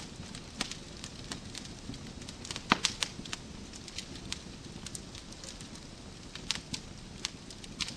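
Wood fire burning in a fireplace: a steady low rumble with irregular sharp crackles and pops, a quick cluster of louder pops a little under three seconds in.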